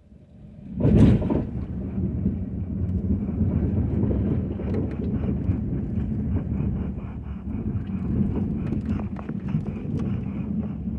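Ford F-250 snowplow truck at work: a sudden loud thump about a second in, then a steady heavy rumble with scattered small clicks and knocks.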